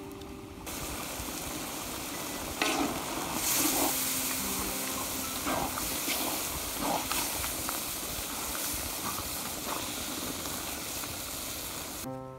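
Food sizzling as it fries in a hot cooking pot, with scattered clicks of stirring. The sizzle starts suddenly about a second in and cuts off near the end.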